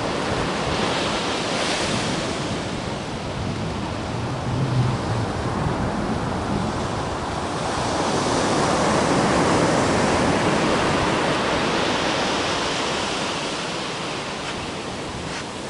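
Ocean surf washing onto the beach: a steady rush of breaking waves that swells louder about halfway through, then slowly fades.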